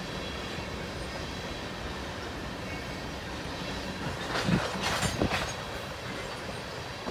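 Tank cars of a long freight train rolling past: a steady rumble of steel wheels on rail. A cluster of sharp clacks comes about four to five and a half seconds in.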